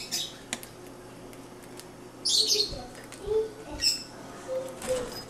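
Pet lovebirds giving short, sharp, high-pitched chirps, four or so spaced a second or more apart, with softer squeaks in between.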